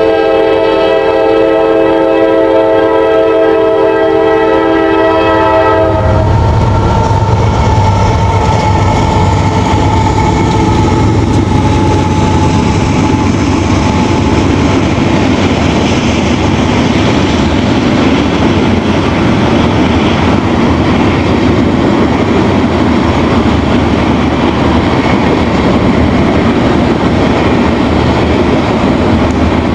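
Locomotive air horn sounding one long chord for about six seconds, cut off sharply. Then two GE AC4400CW diesel locomotives pass with a tank-car train, with a steady low engine rumble and rolling wheel-on-rail noise.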